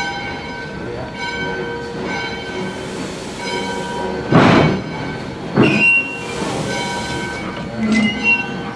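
Steam train heard up close: a steady high squeal made of several pitches, with stretches of hissing and two loud, short noisy bursts a little after the middle.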